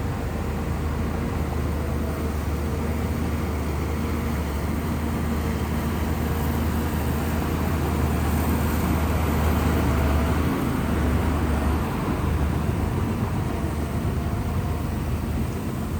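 Shantui bulldozer's diesel engine running steadily with a low drone, growing a little louder around the middle.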